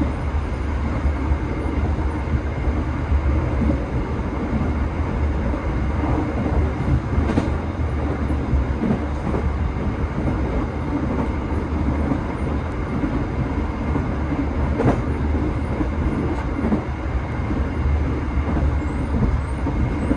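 Steady low rumble of a moving passenger train heard from inside the carriage, with a sharp click twice.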